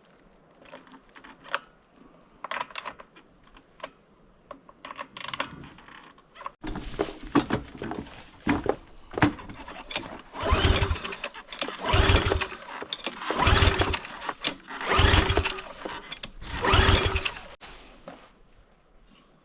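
Pressure washer's small gasoline engine being pull-started: about five hard yanks on the recoil cord, roughly a second and a half apart, each a short whirring crank that never catches. Before them come light clicks and rattles of the recoil starter being handled. The engine has spark but no fuel, which the owner traces to a carburetor orifice clogged by bad gas.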